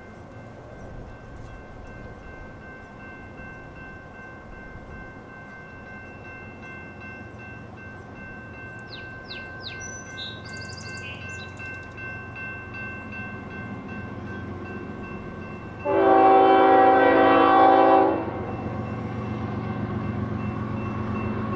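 Approaching train: a low rumble builds through the second half, and about two-thirds of the way in a locomotive horn sounds one loud blast of about two seconds. Birds chirp faintly in the first half.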